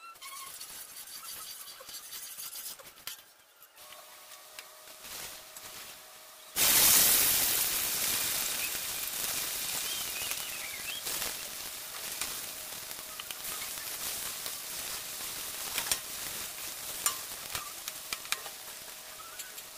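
Raw taro sticks frying in hot oil in a wok: a sudden loud sizzle about a third of the way in as they go into the oil, slowly settling. A slotted metal spatula clinks and scrapes against the wok as they are stirred.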